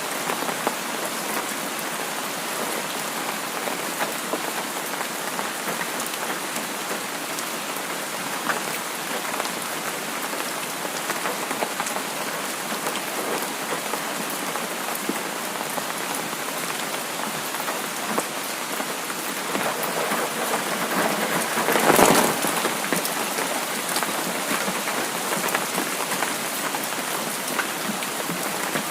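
Steady rainfall, an even hiss of drops with fine scattered patter. About three quarters of the way through, the rain swells briefly louder, then settles back.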